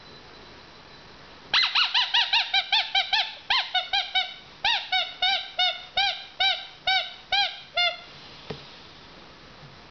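Golden retriever puppy whining in a quick run of short high yips, each rising and falling in pitch, about three a second for some six seconds, starting about a second and a half in and stopping near the end.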